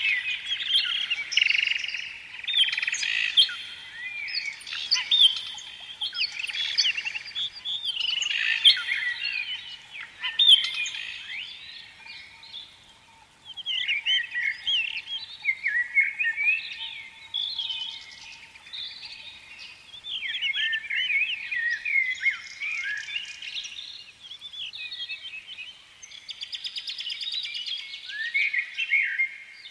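Birds chirping and singing, many quick overlapping calls and short rising and falling notes, briefly thinning out about halfway through.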